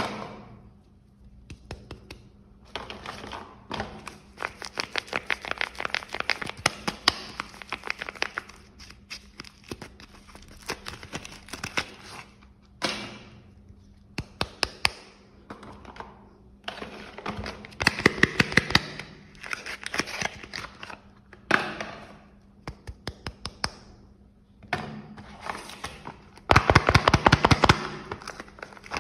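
Soap packaging being handled and opened: wrappers crinkling and tearing in bursts of rapid crackles, with pauses between.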